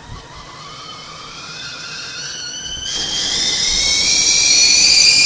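A whistling sound effect that climbs slowly in pitch and grows steadily louder, with a jump higher and louder about three seconds in. It is a rising, boiling-over whistle used for anger building up to the point of blowing up.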